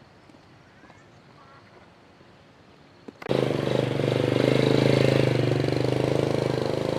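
A small motorbike engine cuts in suddenly, loud and close, about three seconds in and runs steadily, after a quiet stretch with a few faint bird chirps.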